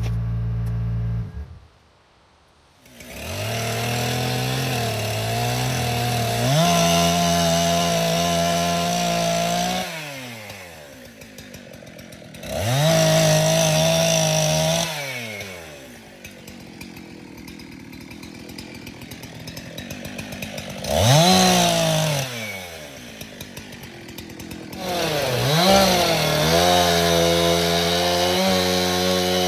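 Gas chainsaw revved up and held at high speed for a few seconds, then dropped back to idle, several times over.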